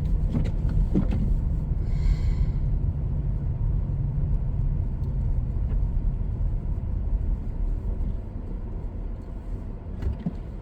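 Car moving, heard from inside the cabin: a steady low road and engine rumble with a brief hiss about two seconds in. The rumble eases off near the end as the car slows.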